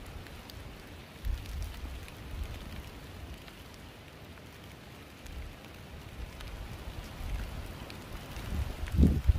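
Steady rain hiss with scattered drops pattering and wind rumbling on the microphone; a short low sound comes near the end.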